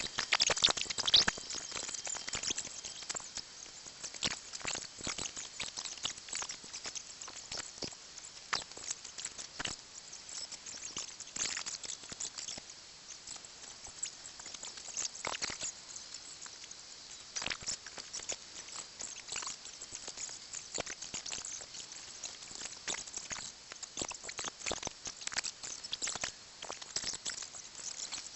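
Small rocks and soil being moved and set by hand: irregular light clicks, taps and scrapes, some close together and some spaced out, over a faint outdoor hiss.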